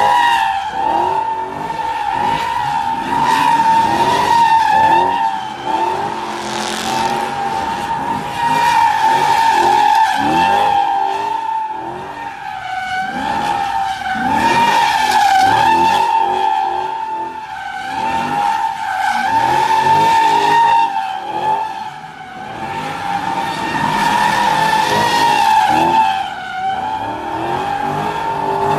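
Dodge Challenger's tyres squealing continuously through a long burnout or drift: one steady, high squeal that wavers in pitch, over the engine revving up and down. The noise swells and eases every few seconds.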